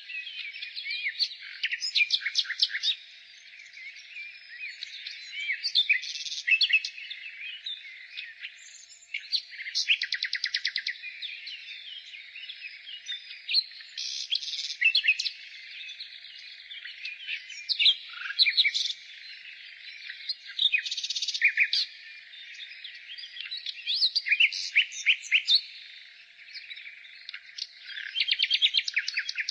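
Nightingale singing: loud phrases every few seconds, many made of rapid runs of repeated notes, with pauses between.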